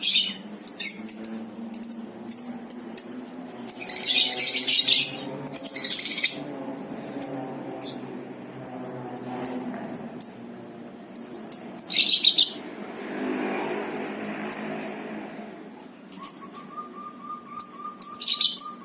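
Lovebirds chirping: many short, sharp, high-pitched chirps, some single and some in rapid dense bursts.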